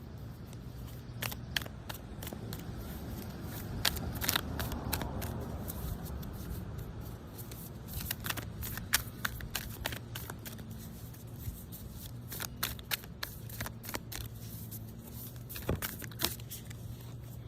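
An oracle card deck being shuffled by hand, with many short card clicks and a brief run of denser rustling about four to six seconds in.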